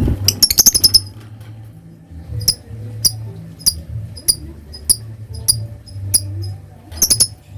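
A lovebird giving sharp, high, clicking chirps, the 'typing' (ngetik) call. It starts with a quick run of about ten, then settles to single chirps at a little under two a second, with a short quick burst again near the end. A low hum runs underneath.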